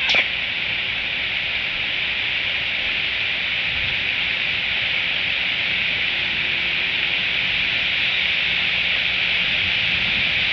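Steady rain falling on the nest and surrounding leaves, a constant hiss. Right at the start there is one brief sound that falls quickly in pitch.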